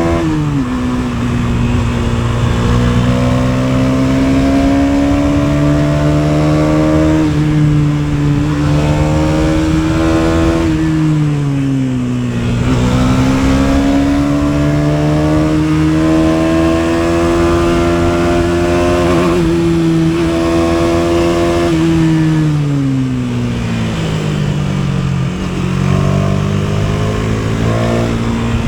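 KTM Duke 250 single-cylinder four-stroke engine under way, its note rising and falling with speed and gear changes. The pitch drops just after the start, falls and climbs again about twelve seconds in, and sinks and rises once more over a few seconds near the end.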